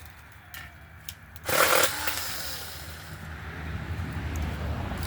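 Small handheld mini chainsaw starting up about a second and a half in and running steadily as it cuts through a tree branch, after a few faint clicks.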